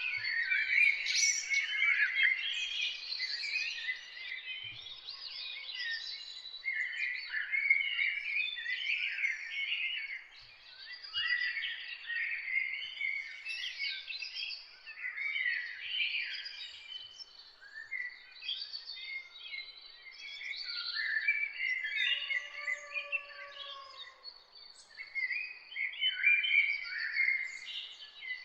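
A chorus of several songbirds singing and chirping at once, in quick overlapping phrases and trills with no breaks. A lower, drawn-out call sounds about two-thirds of the way through.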